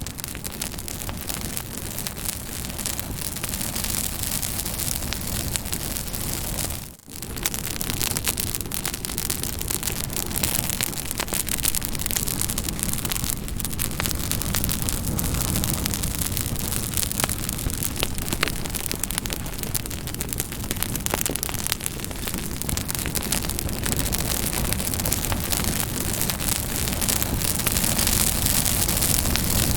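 Campfire crackling: a steady hiss of burning wood with many small sharp pops and snaps. The sound drops out for a moment about seven seconds in, then carries on.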